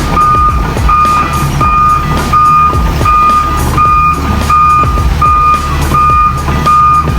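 Heavy-equipment reversing alarm beeping steadily, about ten single-tone beeps at an even pace of roughly one and a half a second, over a diesel engine running underneath.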